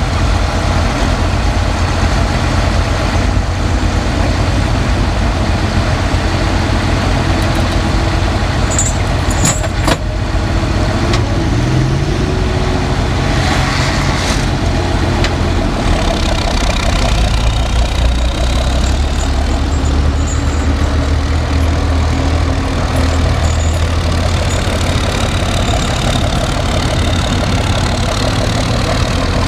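Tractor engines running between pulls with a steady, heavy low rumble, the engine note rising briefly about twelve seconds in and growing heavier for several seconds past the middle.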